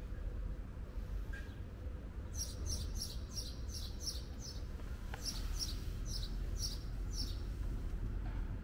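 A small bird chirping: a quick series of about a dozen short, high chirps in two runs, starting about two seconds in and stopping shortly before the end, over a steady low rumble.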